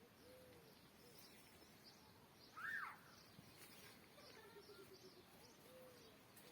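Faint birdsong: a run of short high chirps throughout, with one louder arched call about two and a half seconds in.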